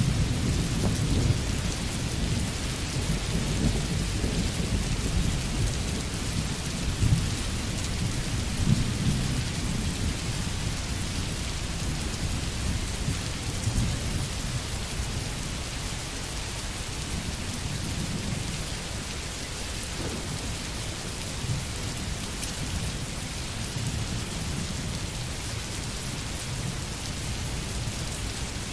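Steady heavy rain with rolling thunder. The low thunder rumble is strongest through the first several seconds, then eases, swelling again now and then.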